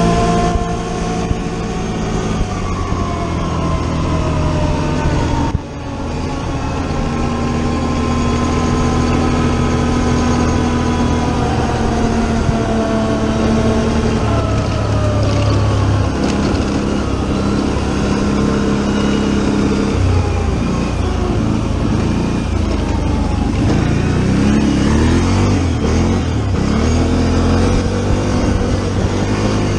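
Four-wheeler (ATV) engine running while being ridden, its pitch rising and falling with the throttle, with a brief dip about five and a half seconds in. Wind rushes over the microphone.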